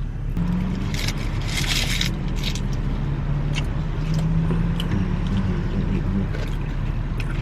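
Car engine idling, a steady low hum heard from inside the cabin, with a brief rustle or scrape about a second in.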